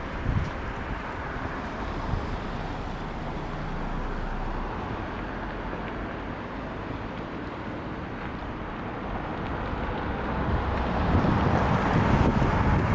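Wind buffeting the microphone, a rough rumbling noise that grows louder about eleven seconds in.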